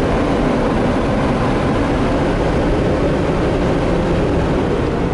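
Car wash air dryer blowers running steadily at full power, a strong rush of air blasting over the car, heard from inside the car.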